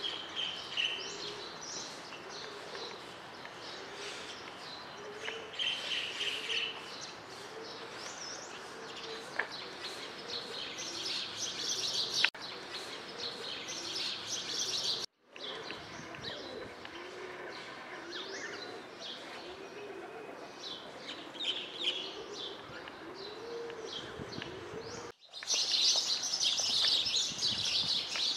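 Many small birds chirping and twittering together, with a low arching note repeating steadily underneath. The sound drops out briefly twice.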